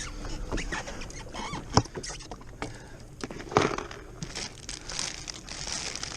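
Handling noises from a freshly landed bass and fishing gear on a jet ski's deck: scattered clicks, rustles and scrapes, with two louder knocks about two seconds and three and a half seconds in.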